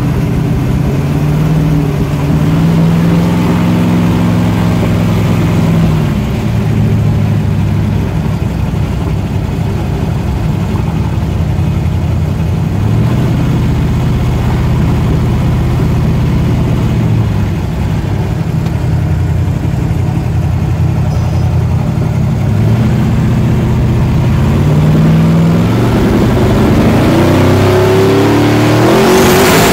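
Twin-turbo 515-cubic-inch big-block Chevrolet V8 in a 1963 Pontiac, heard from inside the car as it is driven on the street. The engine note rises and falls several times as the car pulls and eases off, then climbs sharply and gets louder near the end.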